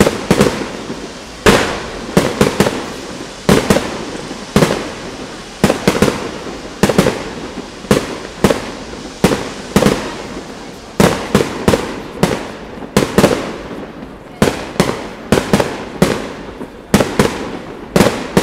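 Fireworks display: aerial shells bursting in a continuous series of sharp bangs, more than one a second and often in quick pairs or triplets, each fading in a short echo.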